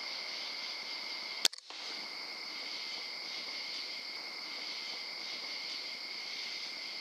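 Steady chorus of crickets and other night insects, an even shrill drone in two pitches, with a single sharp click about a second and a half in.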